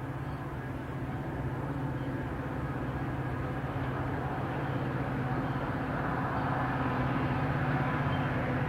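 Metra EMD diesel locomotive approaching. Its engine makes a steady low drone that grows gradually louder.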